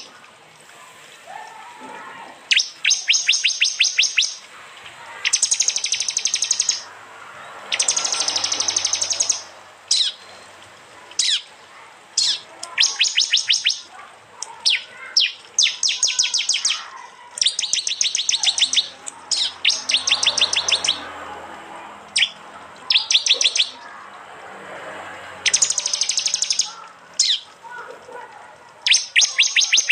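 Prenjak (prinia) giving its hard 'tembakan' call: series of sharp, rapid notes, about ten a second, each burst lasting a second or so, repeated over and over with short pauses.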